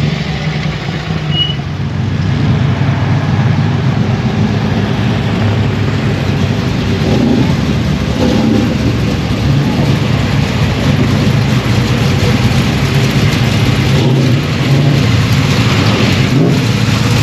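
Car engine idling with a steady deep rumble, under a constant noisy wash.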